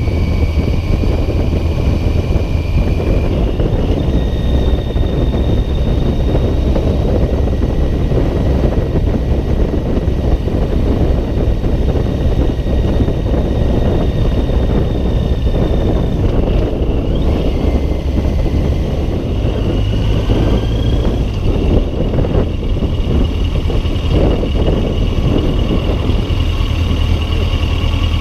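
Loud, steady wind buffeting on an open-backed chest-mounted GoPro during a motorcycle ride, with the bike's engine running at road speed underneath. A thin high whine shifts pitch a few times.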